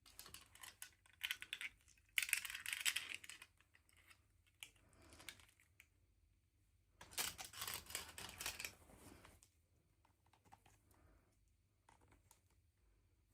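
Toy packaging and small plastic pieces being handled and unwrapped, giving rapid crinkling and clicking. The sound comes in two dense bursts, in the first three seconds and again around seven to nine seconds in, with scattered small clicks between and after them.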